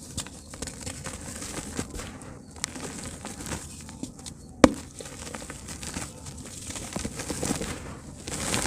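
Soft dirt chunks crumbling and breaking apart in water, a steady crackling with many small clicks and one sharp louder click about halfway through.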